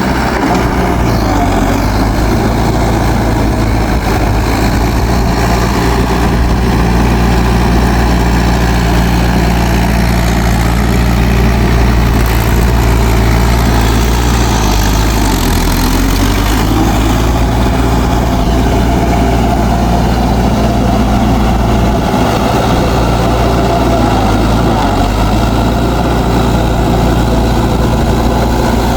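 Mahindra 4WD DI tractor's diesel engine running steadily, its note sagging briefly twice, about halfway through and again later, as if taking load.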